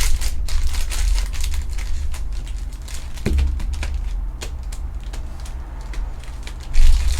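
Foil trading-card pack wrappers crinkling and cards being handled: a run of short crackles and clicks over a steady low hum.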